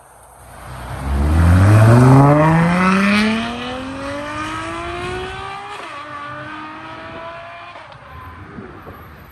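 Ferrari supercar accelerating hard as it pulls away, its engine note climbing steadily for several seconds. The pitch drops at an upshift about six seconds in, then the engine pulls on more quietly as the car moves off.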